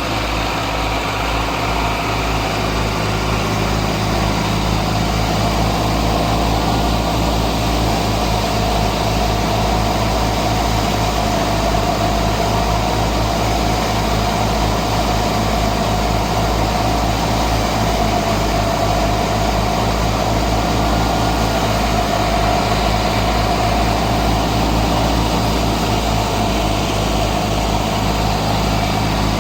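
Al-Ghazi tractor's diesel engine running steadily at an even speed, with a continuous low, pulsing engine note.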